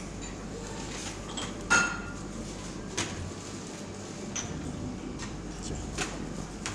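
Tableware clinking in a dining room: a few sharp clinks over steady room noise, the loudest about two seconds in with a short ringing tone, then two lighter ones.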